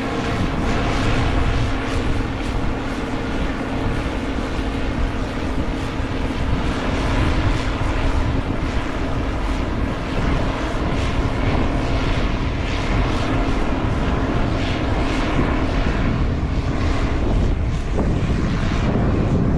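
Heavy diesel farm machinery running steadily close by, a continuous engine drone with a steady hum over a dense rumble. In the last couple of seconds the steady tone fades and a rougher low rumble grows.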